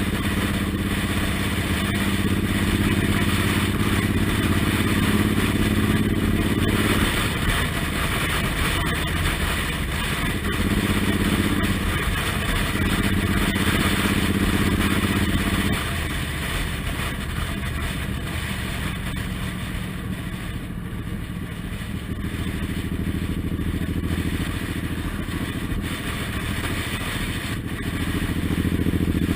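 Suzuki Intruder M1800R's V-twin engine running while riding, heard from the pillion seat over wind rush. The engine note eases off about halfway through and builds again near the end.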